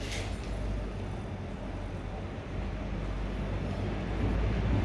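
Low rumble of a motor vehicle, building louder toward the end.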